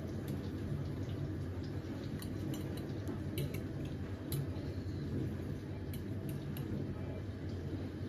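Kitchen work sounds: scattered light clinks of utensils or glassware over a steady low hum.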